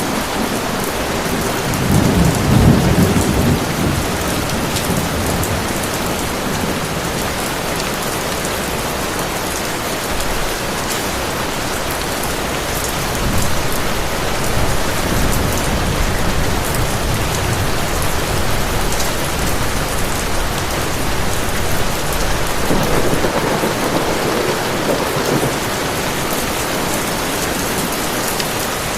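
Heavy rain falling steadily, with low rolls of distant thunder swelling about two seconds in and again later on.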